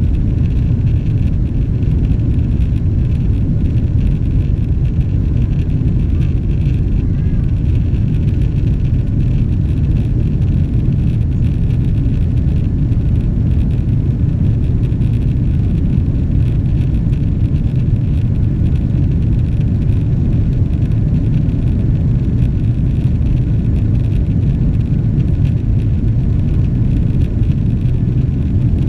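Steady low rumble of a Boeing 777-300ER's GE90 engines and airflow heard inside the passenger cabin, holding an even level throughout.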